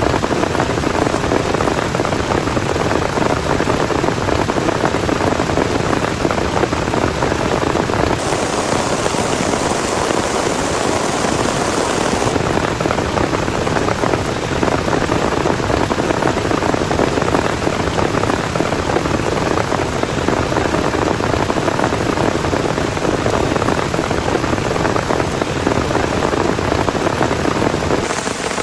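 Heavy rain falling steadily as a dense, loud wash of noise. The upper range brightens into a sharper hiss for about four seconds, a third of the way in.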